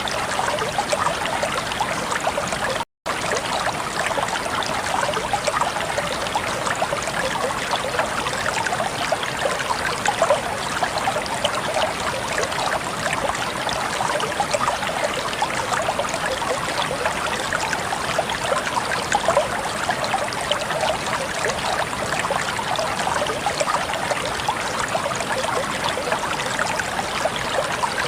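Flowing water running steadily and evenly, with one very brief cut to silence about three seconds in.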